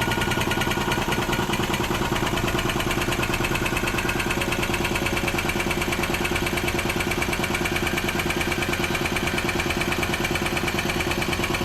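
Air impact wrench hammering steadily to spin lug nuts off a truck's outer dual wheel, then stopping abruptly.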